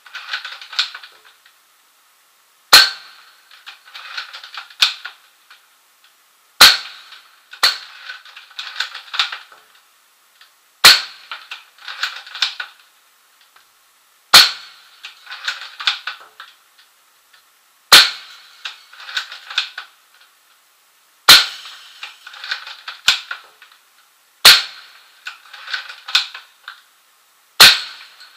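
Airsoft replica firing single shots, eight in all, about every three and a half seconds. Each is a sharp crack followed by about two seconds of light ticking clatter, as the replica's FPS is tested on the battery in use.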